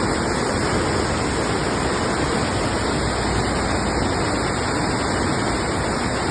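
Steady rushing of water, an even noise that does not change in level.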